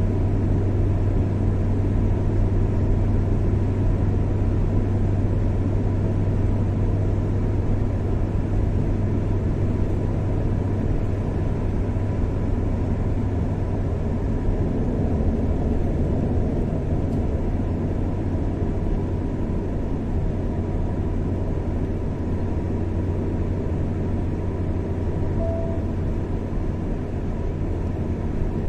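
A car driving at a steady speed on a highway: continuous engine and road rumble that holds even throughout.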